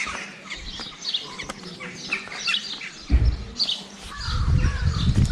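Small birds chirping and tweeting repeatedly in short high calls. From about three seconds in, an uneven low rumble comes in under them.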